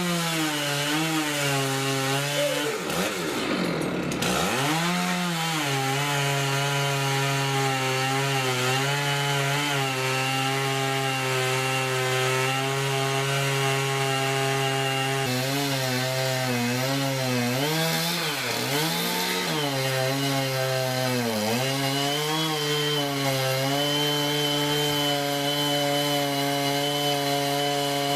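Chainsaw engine running at high revs while cutting through wood. Its pitch drops hard about three seconds in and again twice later, as the chain bogs down under load in the cut, and recovers each time.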